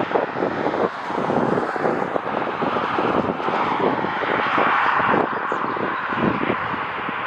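Jet airliner engines as a plane passes, the rushing sound swelling to its loudest a little after the middle, with gusty wind buffeting the microphone throughout.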